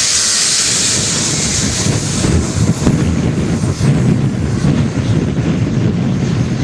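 Radio-controlled model aircraft in flight: a thin, high engine whine falling slowly in pitch, over a steady noisy rumble and hiss.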